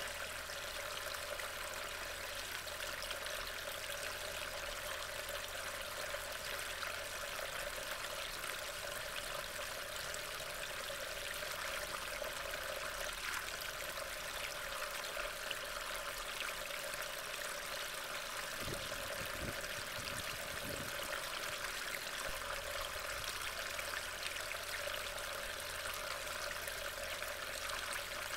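Steady hiss of rain falling, picked up by a trail camera's microphone, with a few faint low thumps about two-thirds of the way in.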